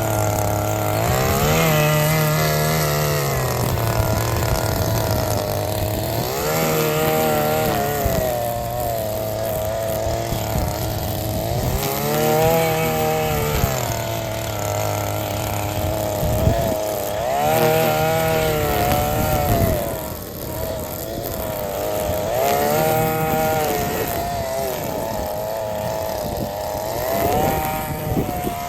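Small petrol engine of a grass-cutting machine running, revved up and let back down to idle six times, about every five seconds.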